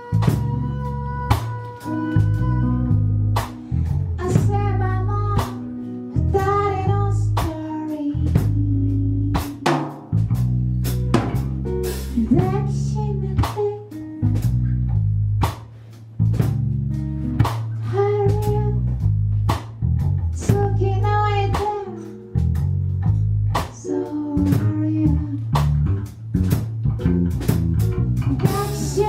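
Live band music: electric guitar, bass and drum kit playing to a steady beat, with a lead melody line over it.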